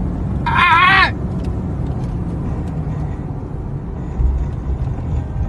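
Steady low road and engine noise of a car driving, heard from inside the vehicle. About half a second in, a brief high-pitched wavering squeal rises above it, and a low thump follows near the end.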